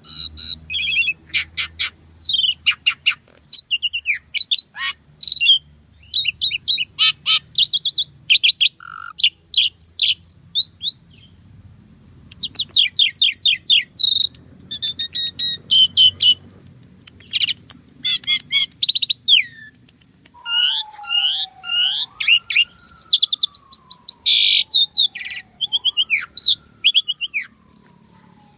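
Asian pied starling (jalak suren) singing vigorously: fast runs of chattering, chirping and whistled notes in quick bursts with short gaps. About two-thirds of the way through, a long slow whistle starts under the song, sliding up and down in pitch.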